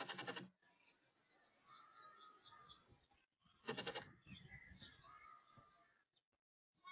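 A small bird singing two phrases: each opens with a short harsh rasping note and runs into a quick string of high chirps.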